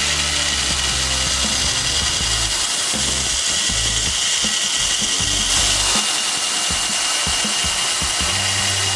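A power tool running steadily, with a constant high tone over the hiss, under background music.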